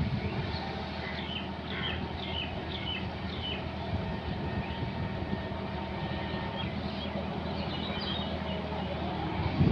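John Deere 5210 tractor's diesel engine running steadily with a fast, even low pulse. Birds chirp briefly over it a couple of times.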